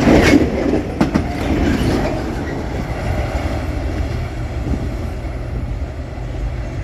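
Empty broad-gauge pulp freight wagons rolling past at speed: a few wheel clacks over rail joints in the first second or so, then a steady rumble of wheels on rail that slowly grows quieter.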